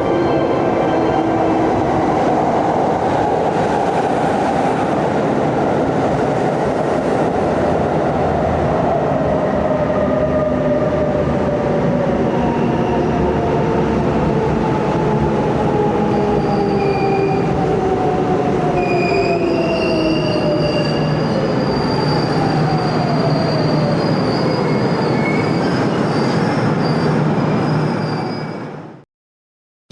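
Hanshin Railway electric train running through a station, its motor whine gliding slowly down in pitch as it slows, with high wheel and brake squeals in the second half. The sound fades out about a second before the end.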